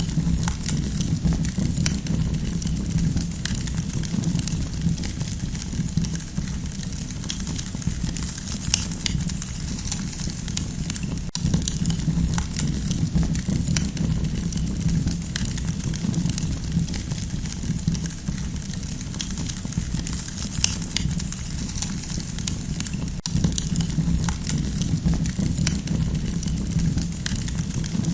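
Campfire burning steadily: a constant low rumble with frequent small, irregular crackles and pops.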